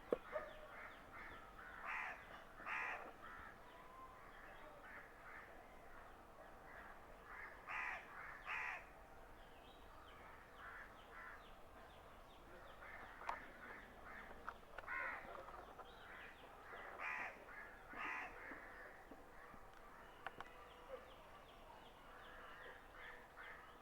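Crows cawing: harsh calls, mostly in pairs, heard several times over a faint, continuous chatter of small birds.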